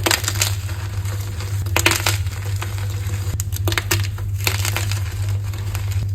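Blocks of gym chalk being crushed: a run of dry, crackly crunches in clusters, over a steady low hum.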